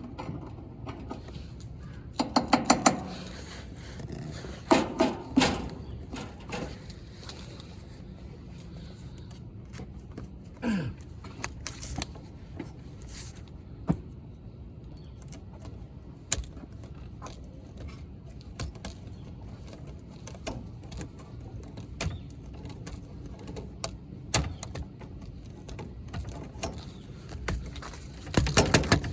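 Hand tools working on copper refrigerant pipe: scattered clicks and knocks, with short bursts of rapid clicking near the start, about five seconds in and near the end.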